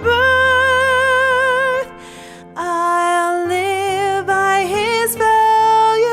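A woman singing a slow song with vibrato over gentle instrumental accompaniment. She holds one long note, breaks off briefly with a soft breath about two seconds in, then sings several more held notes.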